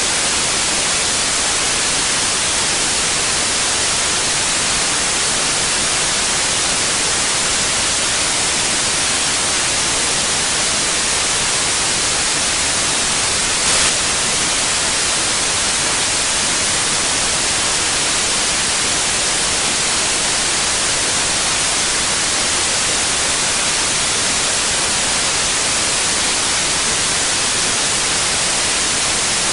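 Steady white noise, an even hiss strongest in the treble, with one brief slight jump in level about halfway through.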